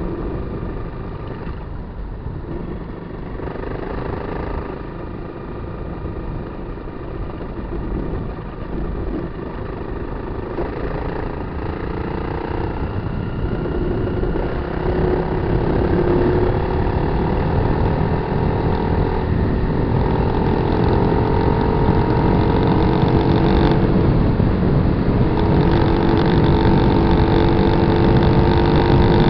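Kawasaki KLR250's single-cylinder four-stroke engine running while the bike is ridden, its pitch rising and falling with the throttle. It gets louder over the second half.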